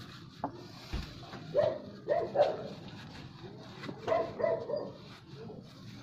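Dog barking in two short runs of barks, about two seconds apart. There is a sharp knock and a low thump within the first second.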